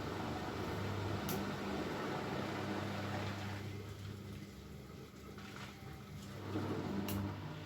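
Bosch Maxx WFL 248Y front-loading washing machine in its wash, the motor humming as the drum tumbles and the water and laundry slosh. The tumbling stops for about three seconds partway through and then starts again, with a couple of light clicks.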